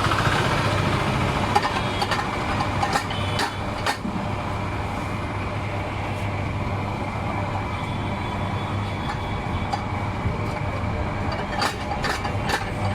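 Street traffic: vehicle engines running and passing with a steady low hum, and a few sharp clicks or knocks about three seconds in and again near the end.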